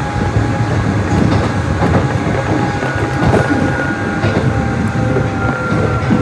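Nishitetsu 600-series electric train running along the line, heard from inside the car: a steady rumble with clicks of the wheels over rail joints and a faint, steady whine.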